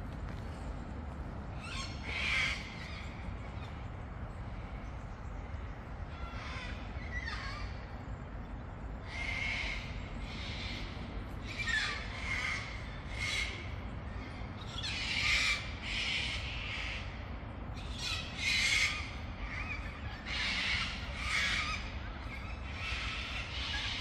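Birds giving repeated harsh calls in short bursts, becoming more frequent about halfway through and loudest in the second half, over a steady low background rumble.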